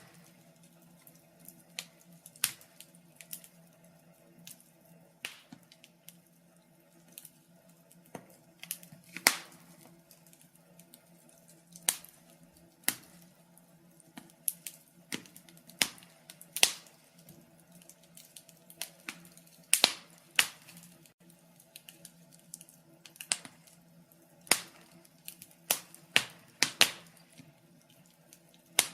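Wood fire crackling, with irregular sharp pops and snaps at uneven intervals, some much louder than others, over a faint steady low hum.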